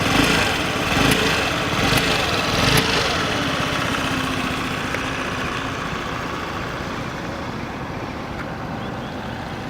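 A 2017 Honda Metropolitan 50cc scooter's single-cylinder four-stroke engine idling steadily and very quietly, with a few light clicks in the first three seconds.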